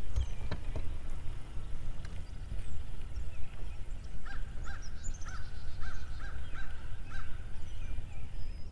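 A bird calling in a quick run of about seven short honking calls, starting a little over four seconds in, over a steady low rumble.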